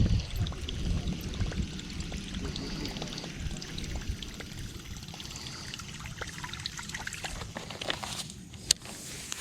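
Water trickling and lapping, with scattered light clicks and one sharp click near the end.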